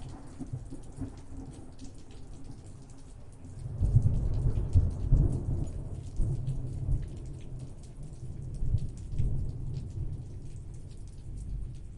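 Steady rain with a roll of thunder: the low rumble swells about four seconds in, lasts a few seconds, and fades with a weaker rumble later on.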